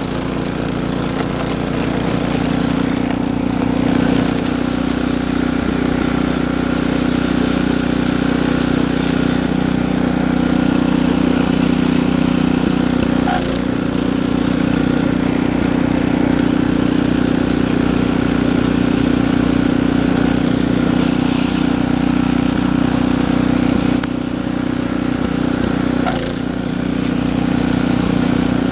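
Snowblower's small gas engine running steadily, with a brief dip in level about 24 seconds in that picks up again a couple of seconds later.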